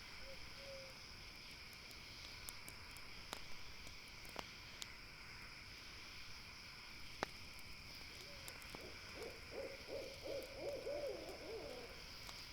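An owl calling, with one short hoot near the start and a long quavering, wavering call over the last few seconds. Under it run a steady high chirring of night insects and scattered sharp crackles and pops from a campfire.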